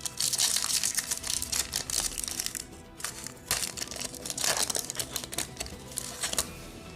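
Foil Pokémon trading-card booster pack wrapper being torn open and crinkled in the hands, in two long spells of crinkling with a short pause between.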